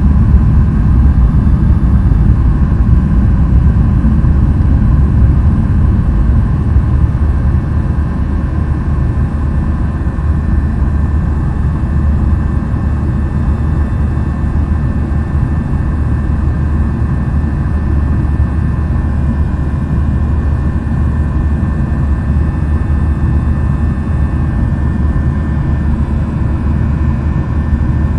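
Jet airliner's engines and airflow making a steady low rumble during the climb after takeoff, easing slightly about seven seconds in.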